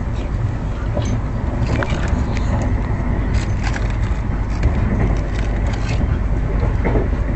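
Moving passenger train heard from inside an Indian Railways 2nd AC coach at speed: a steady, loud low rumble of wheels on rail, with scattered light clicks and rattles.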